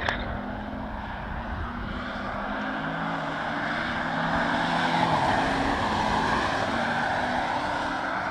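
Audi A5 Avant prototype driving past on the track: engine and tyre noise swell to a peak about five seconds in and then ease off, with a short click at the very start.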